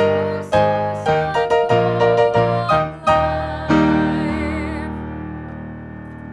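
Piano playing the closing phrase of a worship song as a series of struck chords, ending on a final chord about two-thirds of the way through that rings on and slowly fades.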